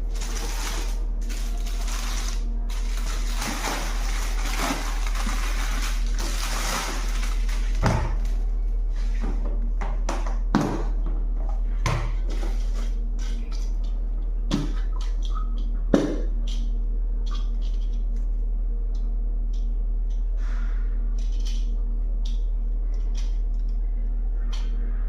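Plastic packaging and bag-valve-mask parts being handled: rustling for the first several seconds, then scattered clicks and knocks, over a steady low electrical hum.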